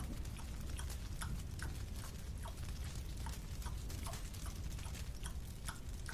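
Rhythmic chewing of a marshmallow: small sticky, wet mouth clicks at about two to three a second, over a steady low hum.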